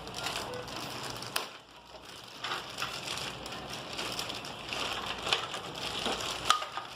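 Crinkling and rustling of toy packaging, with light clicks of plastic parts, as a toy airplane's interior pieces are unpacked and handled.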